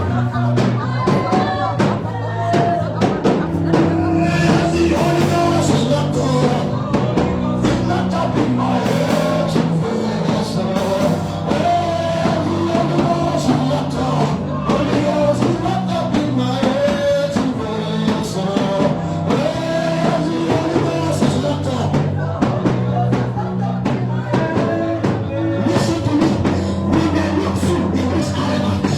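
Worship band music with a drum kit, a steady bass line and a voice singing over it.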